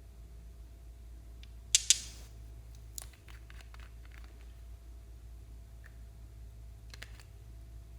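A pair of short crackling crunches about two seconds in, then a sharp click and a few faint clicks later, from hands working slime and makeup materials, over a low steady hum.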